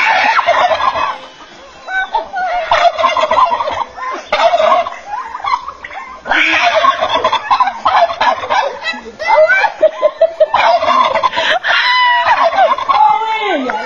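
Turkeys gobbling loudly in a series of about six rattling calls, each around a second long.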